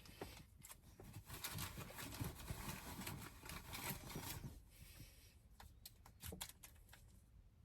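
Faint rustling and handling noises for a few seconds, then a few soft taps, as barbecue sauce is put onto a flatbread.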